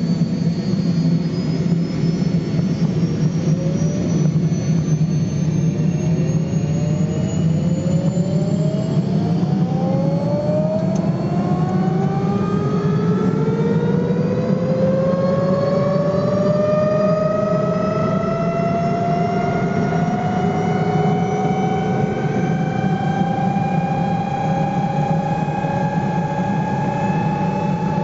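MBB Bo 105 helicopter's twin turboshaft engines spooling up: a whine that rises steadily in pitch over about twenty seconds and levels off near the end, over a steady engine and rotor rumble.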